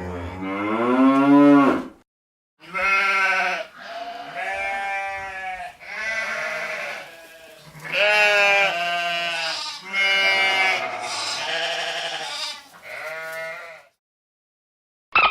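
A farm animal bleating: a string of about seven wavering calls, the first one rising in pitch.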